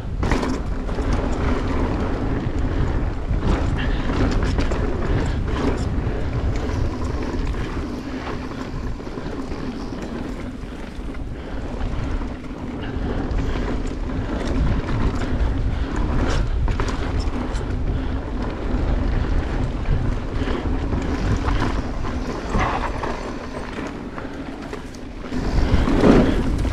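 Mountain bike descending a dirt flow trail: wind rushing over the microphone and tyres rolling on packed dirt, with scattered rattles and knocks from bumps and a louder swell near the end.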